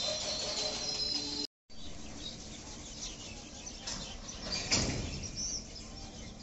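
BCNA covered goods wagons rolling slowly past on the track. A steady high wheel squeal runs for the first second and a half, then the sound cuts out briefly. A rolling noise follows, with one loud knock about five seconds in.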